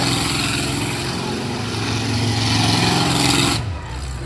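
Mini monster truck engine running at fairly steady high revs under a loud rushing noise. The sound drops away abruptly about three and a half seconds in, leaving a quieter low rumble.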